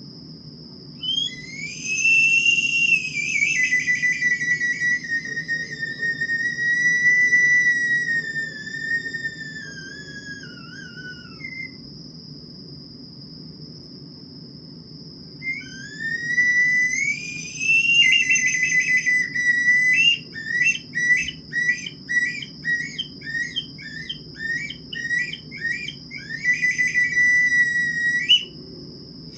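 A clear, whistle-like tone sliding slowly up and down in two long phrases. The second phrase breaks into a rapid warble of about two pulses a second. A steady high-pitched tone runs beneath it throughout.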